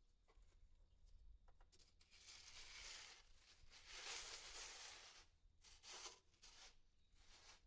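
Masking tape being pulled off the roll, faint: one long tearing rip over about three seconds, then a few short rips and clicks.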